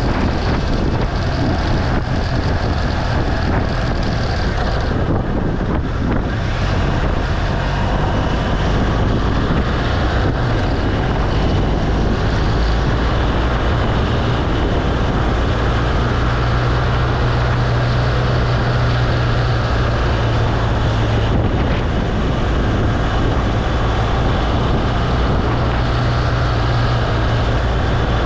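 BMW R1200 GS Adventure's flat-twin boxer engine running steadily while riding, with wind noise on the microphone.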